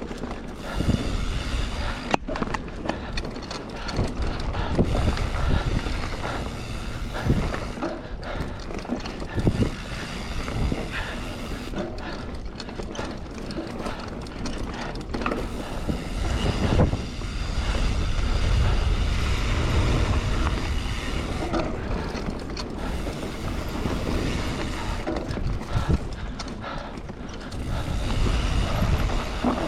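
Mountain bike being ridden over a rough trail: steady rolling and rattling noise with frequent sharp knocks and clicks as the bike hits bumps, and wind buffeting the microphone in stretches.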